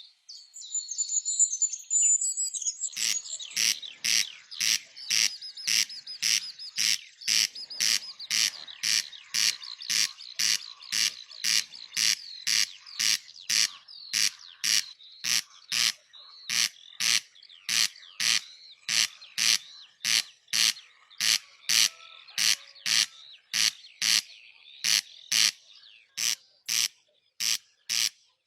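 Birds chirping; from about three seconds in, a loud, sharp call or click repeats steadily about twice a second over the continuing chirps.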